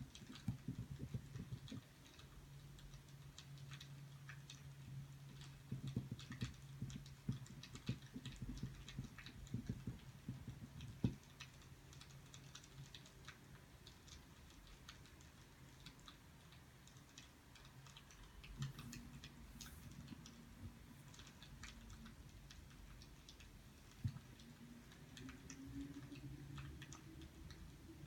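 Faint, irregular small clicks and ticks scattered throughout, over a low steady hum that fades about halfway through; a faint rising tone enters near the end.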